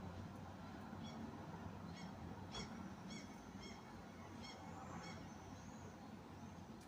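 A bird calling: a series of about seven short, high-pitched calls, between roughly one and five seconds in, over a steady low background rumble.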